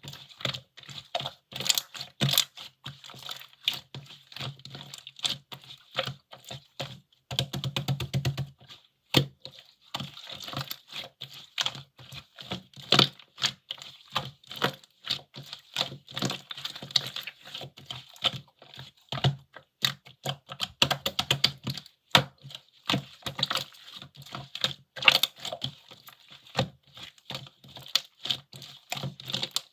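Slime being squeezed and pressed by hand, giving a dense, irregular run of small clicks and pops, with a brief softer squishing stretch partway through.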